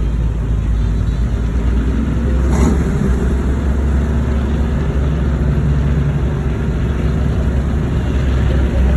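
Cars driving by with a steady low engine rumble, and a brief sharp noise about two and a half seconds in.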